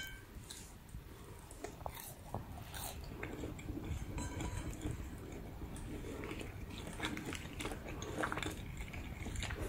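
Faint chewing and biting of crispy pan-fried spring onion pancake, with scattered small crunches.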